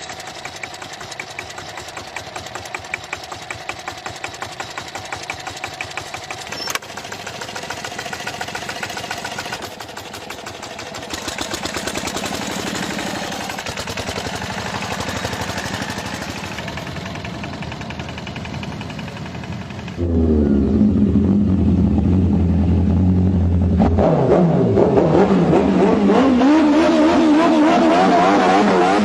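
Motorcycle engines running and revving in a run of short clips, the sound changing abruptly from one clip to the next. It gets much louder about two-thirds of the way in, with the engine pitch rising and falling rapidly in quick blips toward the end.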